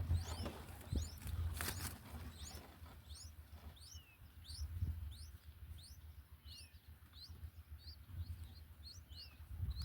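Small birds chirping: a steady string of short, high, quick chirps, several ending in a falling tail. A brief rustle comes about one and a half seconds in, over a low rumble.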